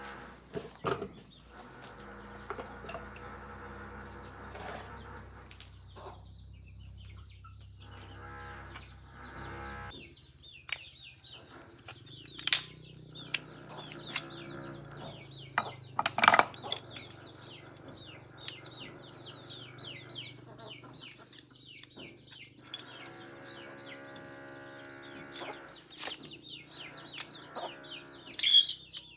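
A few sharp knocks and clicks, several seconds apart, typical of hand tools on metal during motorcycle brake work, over a steady pitched drone that stops and restarts every few seconds.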